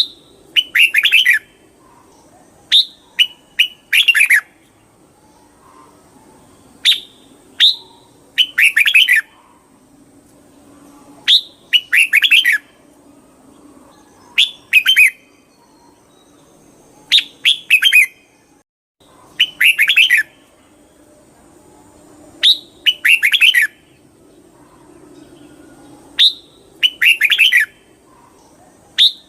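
Red-whiskered bulbul singing: short phrases of several quick notes, repeated about every three seconds.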